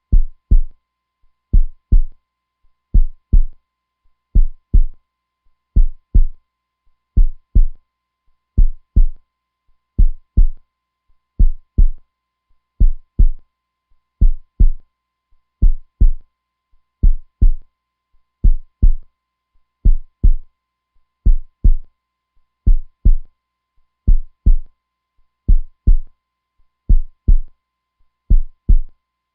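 Heartbeat sound: a steady, slow double thump (lub-dub), each pair repeating about every second and a half.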